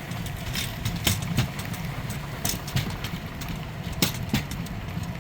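Rail bike's steel wheels rolling on old railway track with a low rumble, clacking over the rail joints in pairs (front then rear wheels) about every second and a half.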